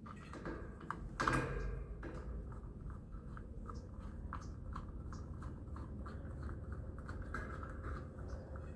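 Irregular light clicks and taps of small screws and metal fan parts being handled and fitted by hand, with one louder knock about a second in.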